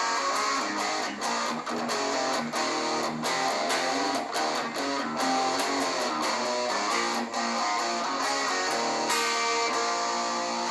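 Electric guitar played through a high-gain amplifier's own overdrive with no effects pedals, a run of picked single notes and sustained lead notes. The playing stops abruptly at the very end.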